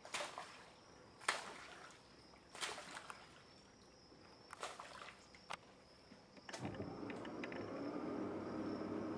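Saltwater crocodile biting into a feral pig carcass: sharp cracking snaps every second or so over a steady high drone of insects. About two-thirds of the way through, a steady low motor hum starts up.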